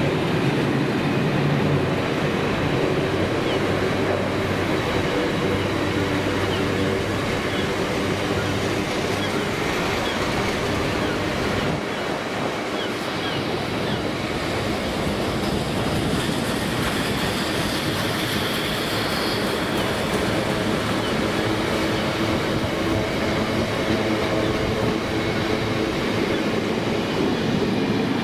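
Long freight train of bogie oil tank wagons rolling past on the rails: a steady rumble of wagon wheels on the track, without a break.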